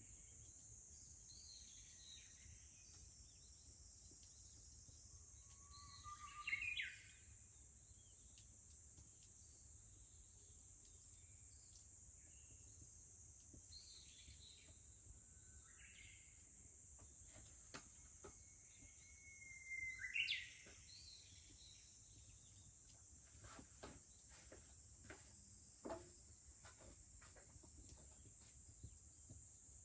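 Japanese bush warbler (uguisu) singing twice, each a held whistle that turns into a quick rising phrase, over a steady high drone of summer cicadas. A few faint crackles near the end.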